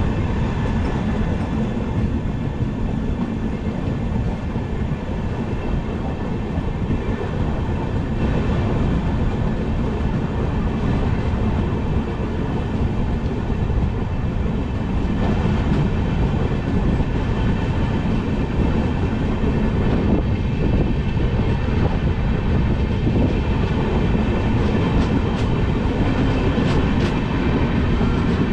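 Passenger express train running through a station, heard at an open coach door: a steady rumble of steel wheels on the rails, growing slightly louder in the second half, with a few faint clicks near the end.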